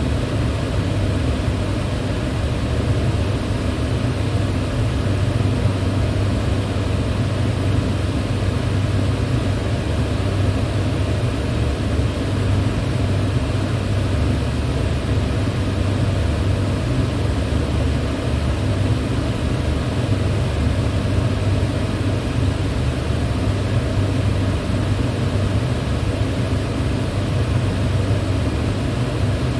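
Electric fan running at a steady speed: an even, low rush of moving air with a faint steady hum, unchanging throughout.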